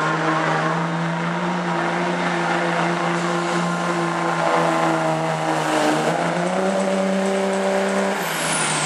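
Pulling truck's engine held at high, steady revs under load during a truck pull, its pitch stepping up slightly about two-thirds of the way through. Near the end the revs drop as the throttle comes off, and a high whine falls away.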